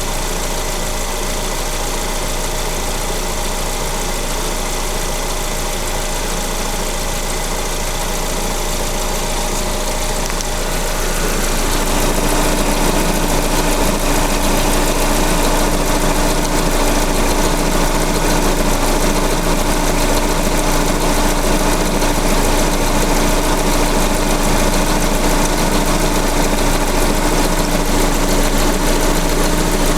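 Lada VAZ-21127 1.6-litre sixteen-valve petrol engine idling steadily. About a third of the way in it grows a little louder and a steady hum comes in over the running.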